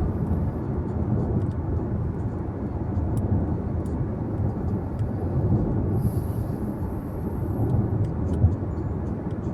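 Steady road and tyre noise with a low engine hum inside a moving car's cabin, with an occasional low thump from the road surface, one near the end.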